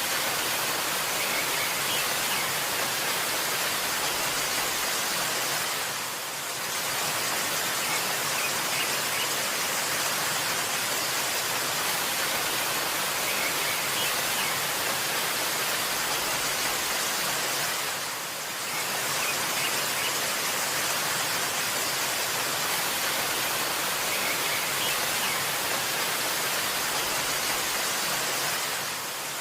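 Waterfall rushing in a steady, dense hiss, with faint bird chirps here and there. The sound dips briefly twice, about six and eighteen seconds in.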